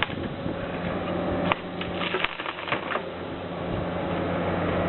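Several sharp knocks and clicks, the loudest about a second and a half in, over a steady low machine hum.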